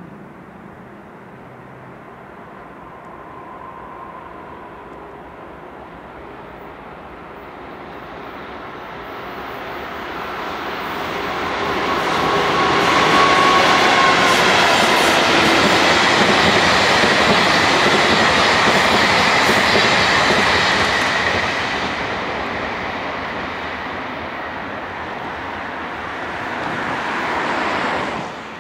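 JR EF81 electric locomotive (No. 98) and its train approaching and passing close by, wheels running over the rails. The sound builds slowly to a loud peak as the locomotive goes by, then fades, and cuts off abruptly near the end.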